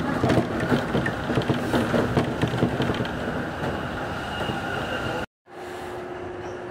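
Electric commuter train running over a steel truss bridge, heard from inside the car: dense rumbling wheel-on-rail noise with rapid clatter and a faint steady whine. It cuts off abruptly about five seconds in, and a quieter steady hum with a low steady tone follows.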